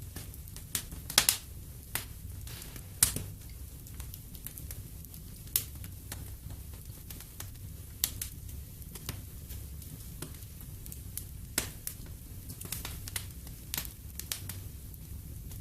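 Wood fire in a fireplace crackling, with irregular sharp pops, the loudest a little after a second in and at about three seconds, over a low steady rumble.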